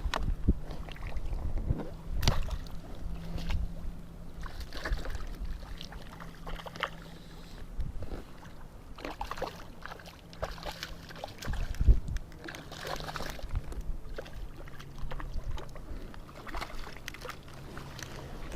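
Scattered light knocks and clicks of handling in a small boat on the water, over a faint steady low hum. The sharpest knocks come about two seconds in and again about twelve seconds in.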